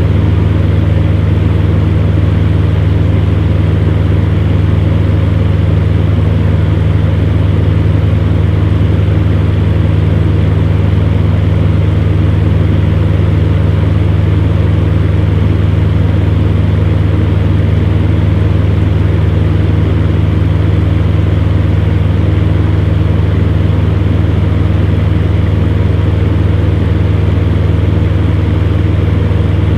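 Electric fan running steadily: a constant low hum with a few steady tones over an even rush of air.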